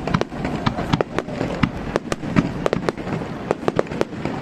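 Fireworks barrage: many sharp bangs and cracks of shells bursting, several a second in quick irregular succession, over a low rumble.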